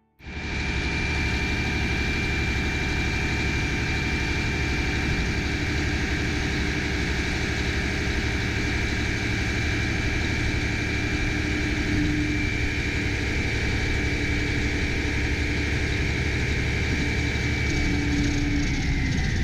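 Mack MP7 diesel engine of a dump truck running steadily while the hydraulic hoist raises the dump body, with a steady high whine over the engine that drops in pitch near the end.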